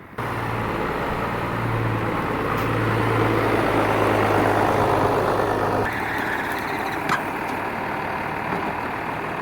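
John Deere 4030 tractor's six-cylinder diesel engine running steadily with a low hum. It comes in abruptly at the start and shifts to a lower, thinner sound about six seconds in.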